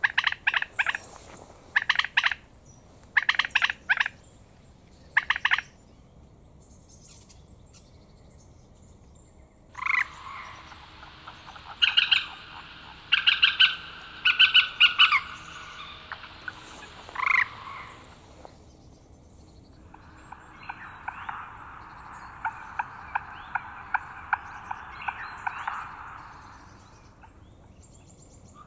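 Bird calls in short rattling bursts, several in the first few seconds. A denser run of rapid chattering calls comes around the middle, then a steadier stretch of fast chatter.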